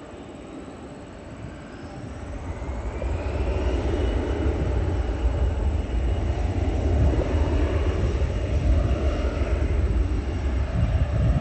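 Jet airliner passing low overhead: the engine roar and rumble swell in from about two seconds in and stay loud, with a whine that rises in pitch and then holds steady.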